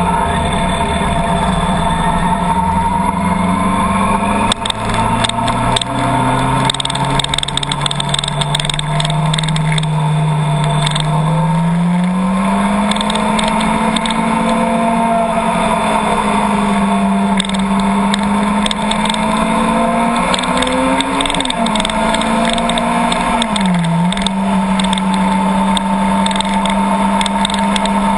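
Car engine and road noise heard while driving. The engine note climbs about twelve seconds in, wavers, and dips sharply then recovers near the end, with scattered light ticks throughout.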